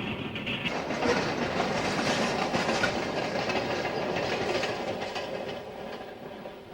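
Freight train cars rolling past, their wheels clattering over the rail joints. The sound grows louder about a second in and fades away near the end.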